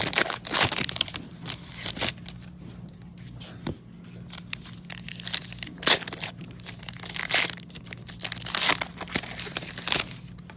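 Trading-card foil packs being crinkled and torn open by hand, with cards handled, in an irregular run of short crackly rustles over a low steady hum.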